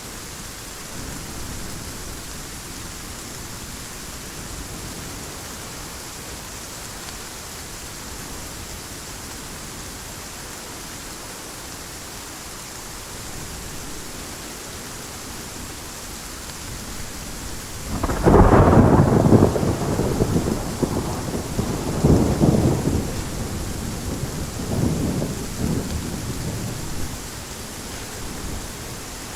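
Steady heavy rain, with a sudden thunderclap about two-thirds of the way in that rolls on in several rumbling waves and fades over about ten seconds.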